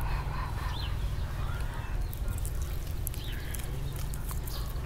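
Birds calling now and then, short chirping calls, over a steady low rumble.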